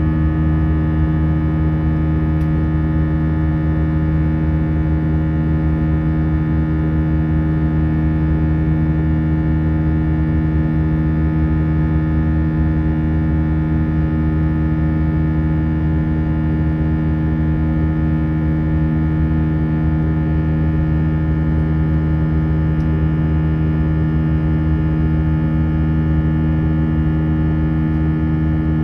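Steady cabin drone of an Airbus A319 in flight: engine and airflow noise with a constant low hum made of several steady tones.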